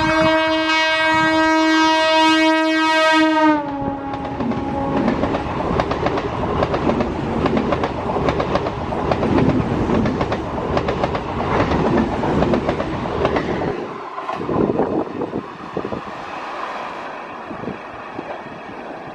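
Local passenger train blowing its horn, a loud steady tone for the first three and a half seconds that ends with a slight drop in pitch, followed by the train running past with wheels clattering rhythmically over the rail joints, the noise gradually fading near the end.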